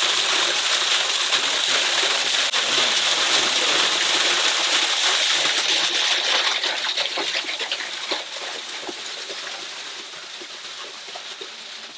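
Waterfall pouring and splashing as a steady rush of water that fades gradually over the last few seconds.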